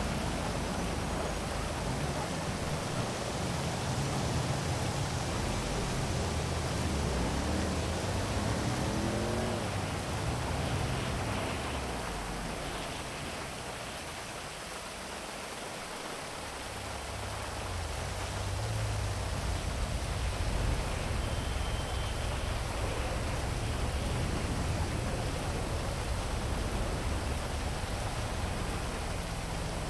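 Steady heavy rain hiss over a low rumble of city traffic, which eases for a few seconds about midway before building again.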